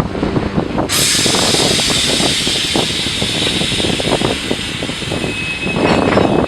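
Sudden loud hiss of air from a freight train's air brakes about a second in, holding and slowly easing over a low rumble. A faint high steady tone joins near the end.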